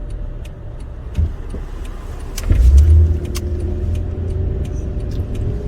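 Car driving on a country road, heard from inside the cabin: a steady low engine and tyre rumble, with a short thump about a second in and a louder low rumble for about half a second midway.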